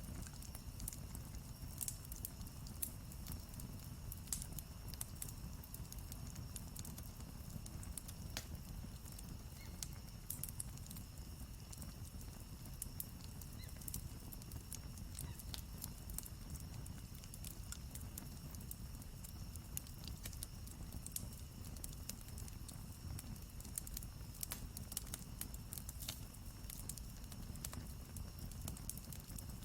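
Campfire crackling: irregular sharp pops and snaps over a low, steady rumble of burning.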